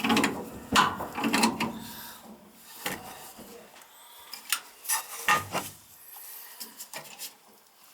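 Hand work on a gas furnace: irregular knocks, clicks and scraping of parts and tools being handled, loudest in the first second and a half and again around five seconds in.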